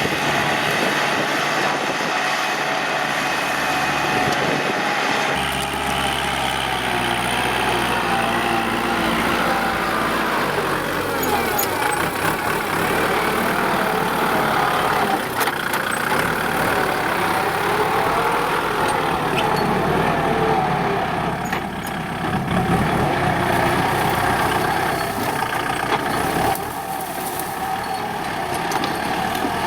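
Diesel engine of a Kubota L4708SP tractor running steadily under load while ploughing, its pitch drifting up and down. The sound changes abruptly about five seconds in and again near the end.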